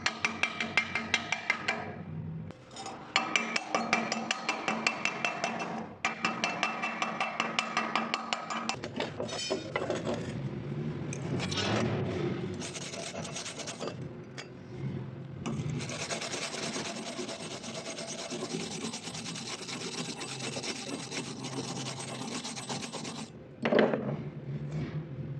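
Rhythmic percussive music for the first several seconds, then scraping on metal and a steady harsh hiss from metalwork, with one loud knock near the end.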